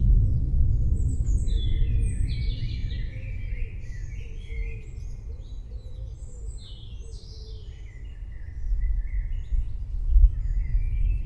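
Several songbirds chirping and twittering in quick short calls, over a deep low rumble that eases off partway through and swells again near the end.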